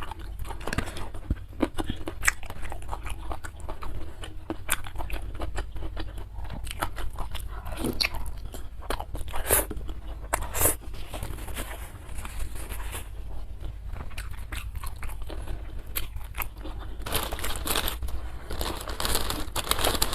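Close-miked eating: biting and chewing crunchy food, many sharp crunches and wet chewing, busier and louder near the end.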